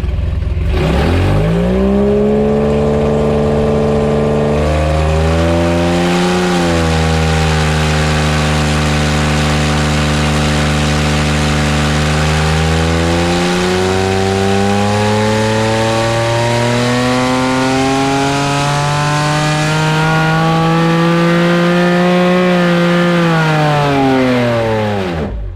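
Porsche 996 3.9-litre naturally aspirated flat-six engine running under load: the revs climb, hold steady for several seconds, then climb slowly and steadily for about ten seconds before dropping off sharply near the end.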